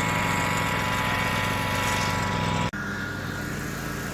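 Lawn tractor engine running steadily. The sound breaks off sharply about two and a half seconds in and carries on slightly quieter.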